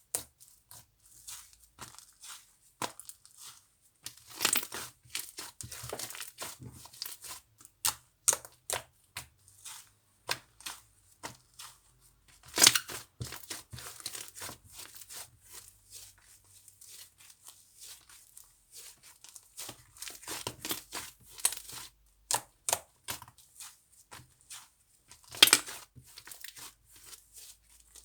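Slime being squeezed, pressed and stretched by hand, giving irregular sharp clicks and pops, with a louder snap about halfway through and another near the end.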